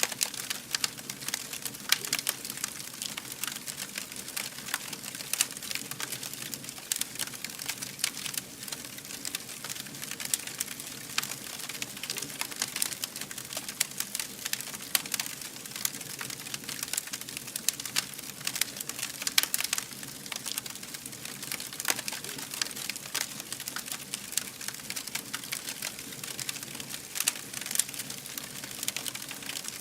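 Campfire burning, with dense, irregular crackling and popping over a steady low rush of flame.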